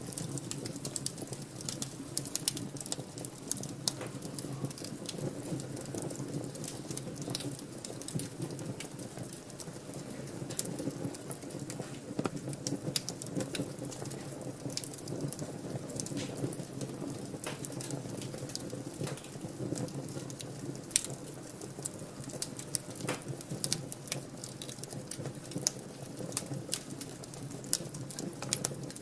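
Fire in a fireplace crackling: irregular sharp pops and snaps over a steady low rustle of the flames.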